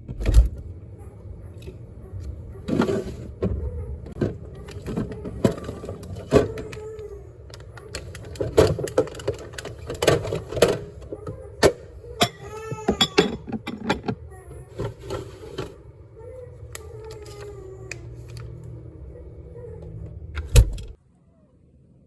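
Repeated knocks, clicks and clatter of objects being handled, over a steady low hum. About two-thirds of the way through, a short pitched sound wavers up and down, and everything cuts off abruptly about a second before the end.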